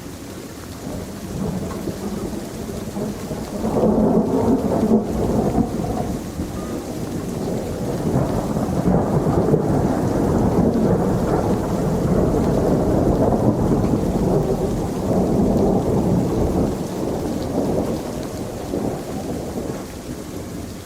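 Rain falling steadily under a long roll of thunder that swells about four seconds in, rumbles on through the middle and fades near the end.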